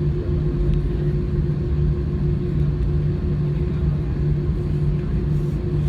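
Airbus A320 cabin noise from a window seat: the engines running with a steady low rumble and a constant hum, at a steady level.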